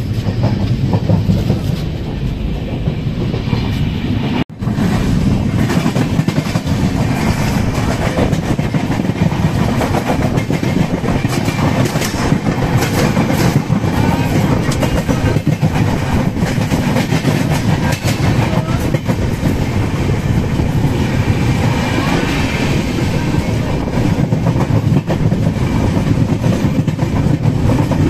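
Indian passenger train running along the track, heard from inside the coach near the door: a steady loud rumble with the clickety-clack of wheels over the rails. A brief dropout about four and a half seconds in.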